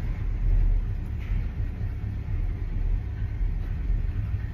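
Cold start of a carbureted Chevrolet Malibu engine that has been in storage: having just caught, the engine idles with a steady low rumble.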